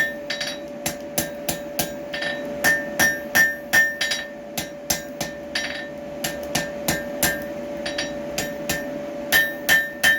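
Blacksmith's hammer striking hot steel tongs on an anvil, in quick runs of about three blows a second, many with a bright ring. A steady hum runs underneath.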